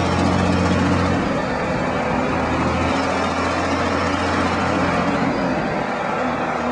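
Truck engine idling with a steady low hum, its pitch shifting slightly about a second in and again around three seconds in.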